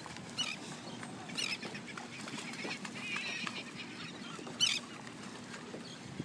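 Short, high honking animal calls, three or four times, over a steady low background.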